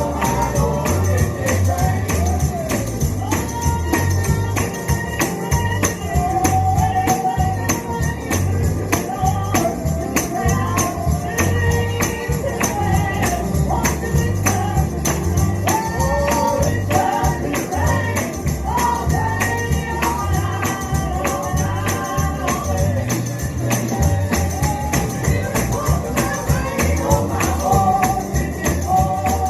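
Live gospel song: a singing voice over a tambourine shaken in a steady rhythm, with a low bass accompaniment.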